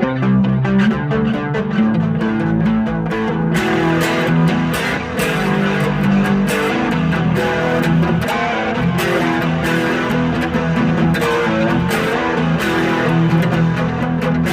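Mexican-made Fender Stratocaster electric guitar played clean on its bridge pickup, with volume and tone on 10: a continuous run of picked single notes and chords, each with a sharp attack and ringing sustain.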